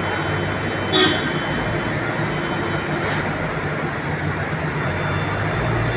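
Steady rumble of a vehicle in motion, with one short sharp clack about a second in.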